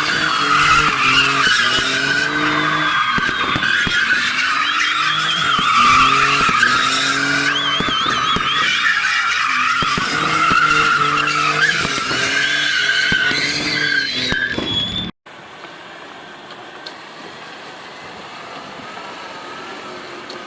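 Mercedes-Benz V6 engine revving hard over and over, each rise in pitch broken off and begun again, while the tyres squeal and skid with a wavering screech. About 15 seconds in it cuts off abruptly, and a much quieter, steady engine sound follows.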